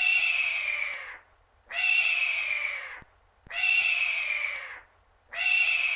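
Hawk screaming: four long calls about two seconds apart, each falling slightly in pitch.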